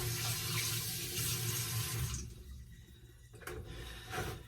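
Kitchen tap running water into the sink, shut off about two seconds in, followed by a couple of small clicks.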